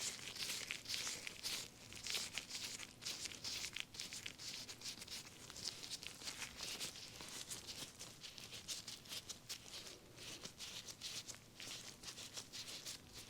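Close-miked facial massage: a dense, continuous run of quick, soft rubbing and crackling strokes as aloe is worked into the skin.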